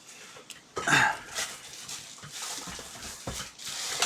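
Handling noise as a cutting mat and its packaging are moved, with rustling and light knocks. About a second in there is a short squeal-like sound that falls in pitch.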